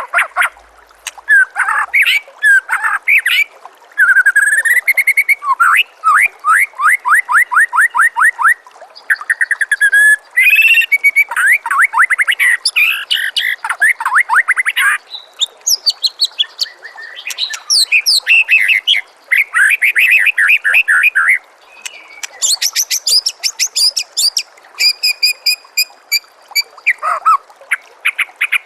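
White-rumped shama (murai batu) singing a long, varied song: whistled glides, fast runs of repeated notes at about ten a second, and high buzzy rattles, one phrase after another with barely a pause.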